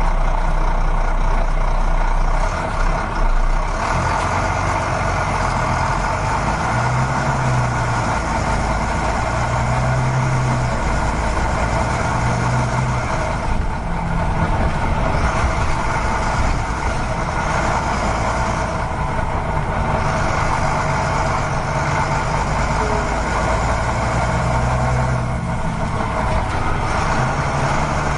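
A vehicle's engine or motor running steadily, with a deeper hum that comes and goes every few seconds.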